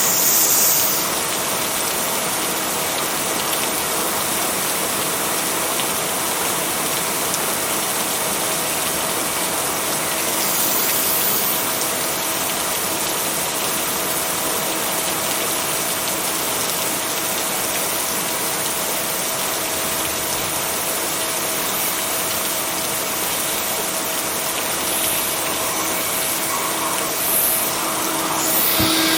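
Steady rain, a dense even hiss, with a faint steady tone underneath. It swells briefly near the start, about a third of the way in, and near the end.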